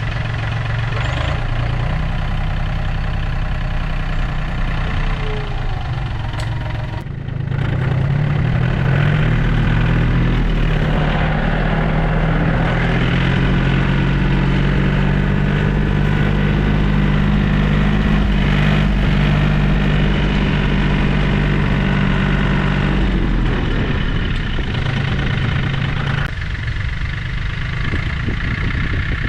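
John Deere 870 compact tractor's diesel engine running, getting louder and higher about seven seconds in as it is throttled up, then easing off near the end.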